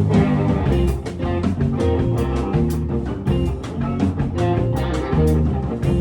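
Psychedelic rock music: a Danelectro baritone electric guitar plays a moving line of notes over bass and a steady drum beat.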